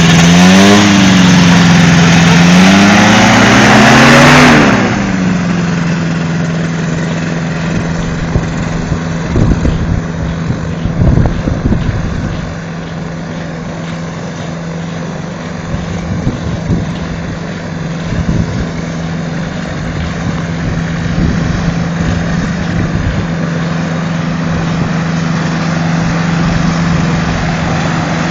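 Microlight's Rotax 512 engine revving, its pitch rising and falling for the first few seconds, then dropping suddenly to a steady lower running speed.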